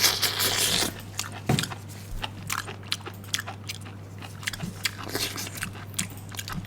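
Close-up crunching and chewing of crisp pickled bamboo shoots: many short, sharp crunches, densest and loudest in the first second, over a steady low electrical hum.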